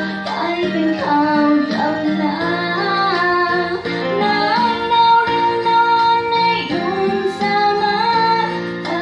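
A female voice singing a Thai song over guitar accompaniment, holding one long note in the middle.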